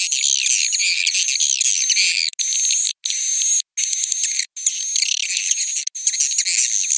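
Swiftlet roosting-call lure recording ('suara inap') used to draw edible-nest swiftlets into a nest house: dense high chittering and twittering of many swiftlets over a steady high whistle tone. It cuts out abruptly for brief moments several times, as in an edited loop.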